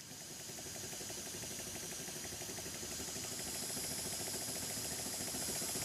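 Double-acting slide-valve model mill steam engine running on compressed air: a fast, even patter of exhaust beats over a steady hiss of escaping air, growing louder through the first few seconds.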